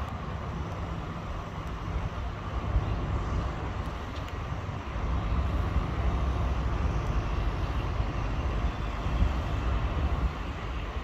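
A motor vehicle's engine running steadily, a low rumble with some road or traffic noise, growing a little louder about halfway through.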